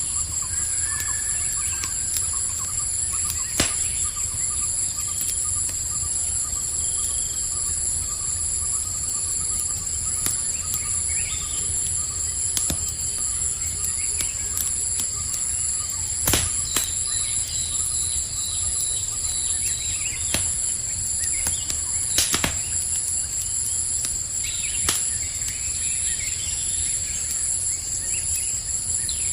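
Campfire crackling with scattered sharp pops, a few of them loud, over a steady high-pitched chorus of crickets and a low rumble of the fire, with occasional faint chirps.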